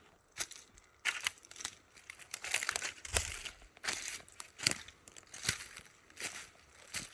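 Footsteps walking over a crunchy surface, a short scuffing crunch about every three quarters of a second.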